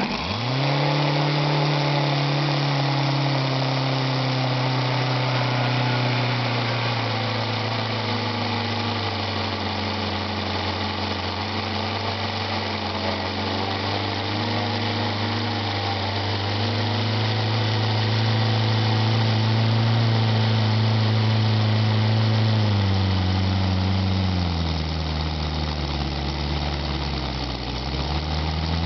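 Radial engine catching and spinning up quickly to a steady run. A little over twenty seconds in its speed drops and wavers, dipping before it picks up again near the end.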